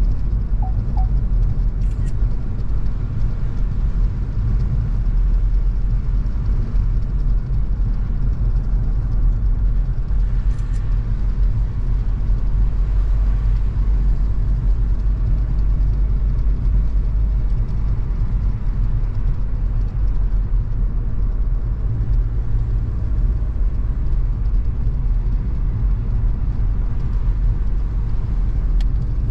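Car driving at a steady speed: constant low engine and road rumble, with a couple of faint clicks.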